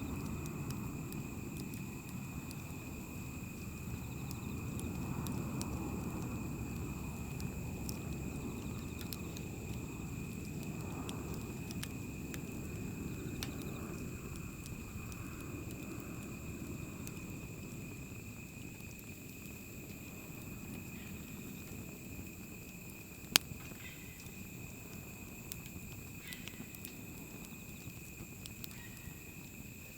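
Wood fire burning: a low rushing sound that slowly fades, with scattered small crackles and one sharp pop about 23 seconds in.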